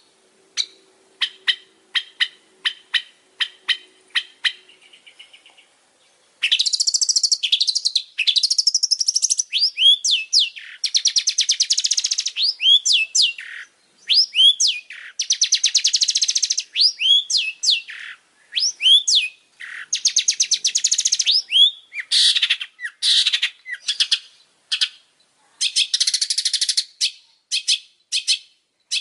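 Long-tailed shrike singing loudly. It opens with a run of sharp, evenly spaced chips, then after a short pause breaks into dense, rapid rattling trills and chatter laced with quick upward-sweeping notes, in bursts separated by brief pauses.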